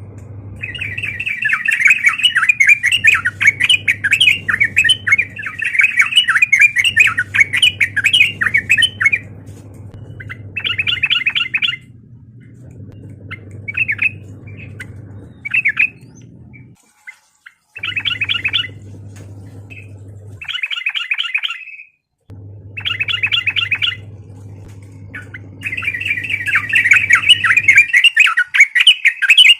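Yellow-vented bulbul (trucukan) singing in rapid, bubbling, chattering phrases. There is one long run at the start, then short phrases broken by pauses, then another long run near the end. A low steady hum runs underneath and drops out twice.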